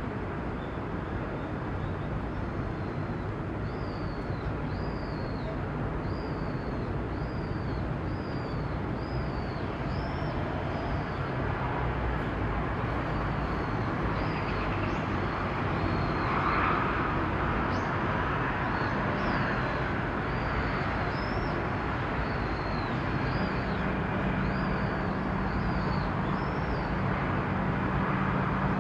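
Steady low rumble and hum of ship or tugboat engines in the harbour, with a small bird chirping over it in short high chirps, roughly one a second. A steady low engine tone becomes stronger in the last few seconds.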